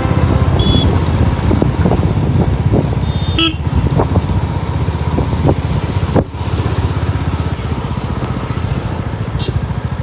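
Motorcycle on the move in traffic: a steady engine and wind rumble, broken twice by short vehicle horn toots.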